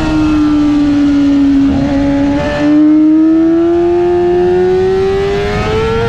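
Yamaha R6 inline-four engine heard onboard at track speed with wind noise. The engine note sags slightly, hitches about two and a half seconds in, then climbs steadily as the bike accelerates.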